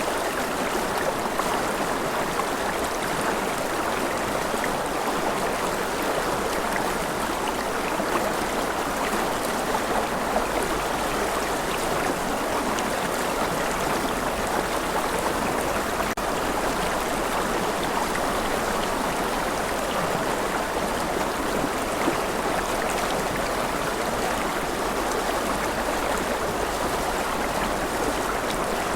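Gentle rain falling steadily: an even hiss of rainfall that does not change in level.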